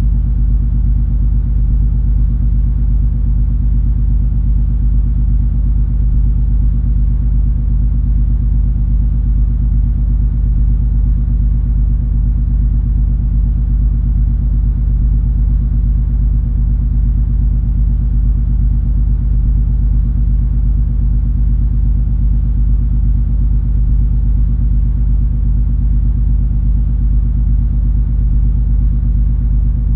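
Cruise ferry MS Color Fantasy's engines and machinery running under way: a low, steady drone with several constant hum tones.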